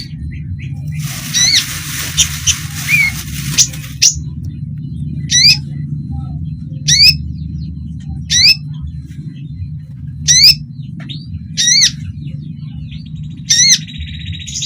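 Kolibri ninja (konin) sunbird giving sharp, high, quick call notes, repeated about every one and a half seconds. In the first few seconds there is a busier stretch of chirps with a hiss behind them. A steady low hum runs under the calls.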